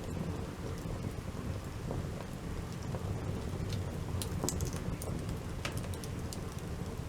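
Wood campfire burning, with scattered sharp crackles and pops over a steady low rush.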